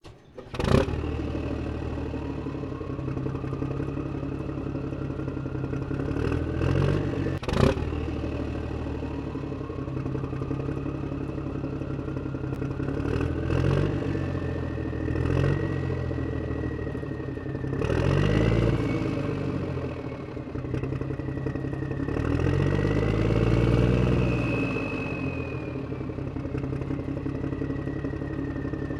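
Miniature toy diesel engine running with a clatter, its speed slowly rising and wavering. There is a sharp knock about a second in and another near eight seconds.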